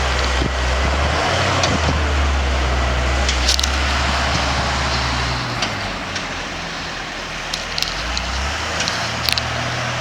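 Payloader's diesel engine working under load as it clears deep snow, its low note shifting a few times, with a few sharp clanks.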